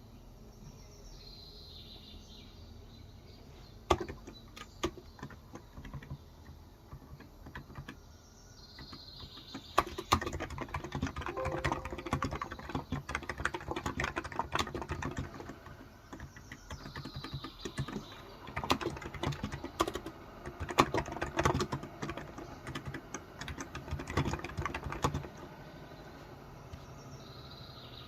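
Typing on a Cox Endeavor electrostatic capacitive tenkeyless keyboard with 35 g switches: runs of rapid keystrokes with pauses between them. A bird chirps now and then in the background.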